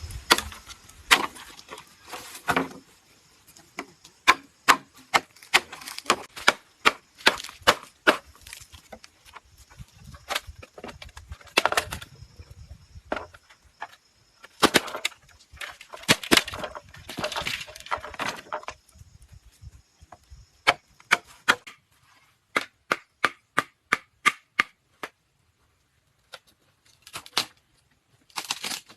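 Bamboo being chopped and tapped with a blade: irregular sharp knocks, with a quicker even run of taps, about three a second, near the end.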